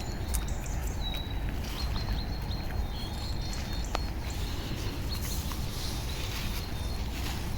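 Birds chirping in short, high-pitched notes repeated on and off, over a steady low rumble, with a few faint sharp clicks.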